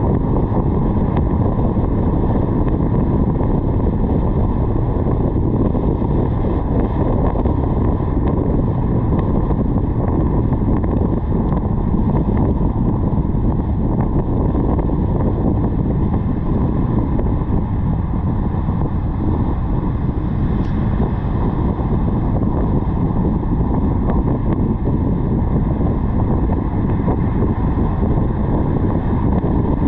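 Steady wind rush over a car-roof-mounted GoPro's microphone, mixed with road noise from the moving car.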